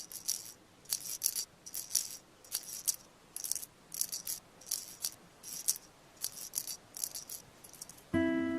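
A soft shaker rattling in short hissy shakes, about two or three a second in a loose rhythm. Near the end a glockenspiel-like tune comes in.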